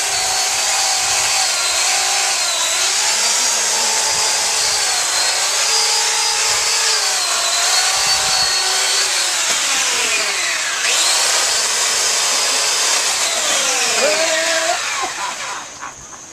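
Power tool cutting into a storm-felled tree, its motor whine wavering in pitch under load. It slows with a falling pitch about eleven seconds in, picks up again, then winds down and stops near the end.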